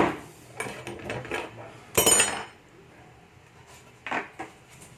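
Metal engine parts of a split small Honda engine knocking and clinking as they are handled and moved. The loudest clank comes about two seconds in and rings briefly, with softer knocks before it and two more near the end.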